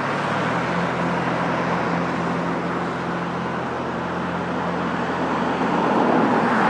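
A motor vehicle's engine running steadily at idle, a low, even hum.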